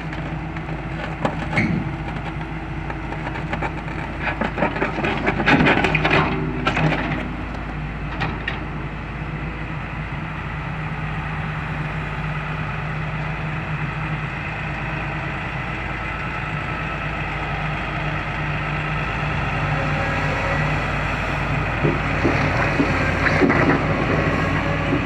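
Excavator's diesel engine running steadily, with bursts of knocking and creaking as the machine moves on the trailer, loudest about five to eight seconds in and again near the end.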